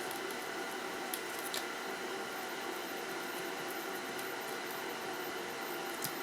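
A few faint, short clicks of small metal tools on a circuit board while working a stuck pin out of a Dreamcast controller board, over a steady electrical hum.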